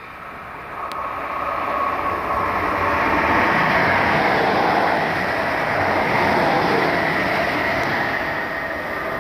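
Electric multiple unit passing through the station at speed: the rush of the train and its wheels on the rails builds to a loud peak as it goes by, then eases off near the end.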